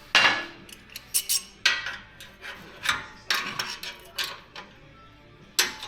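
A wrench working an exhaust pipe clamp: a series of irregular metallic clinks and scrapes, strongest just after the start and again near the end.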